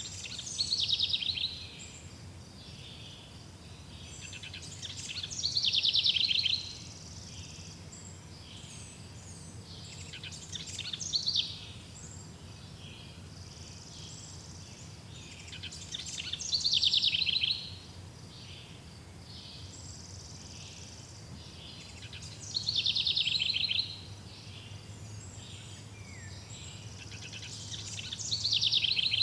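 A songbird repeating the same high, rapidly trilled song phrase about every five to six seconds. Each phrase swells over a second or so and then stops. A steady faint low hum runs underneath.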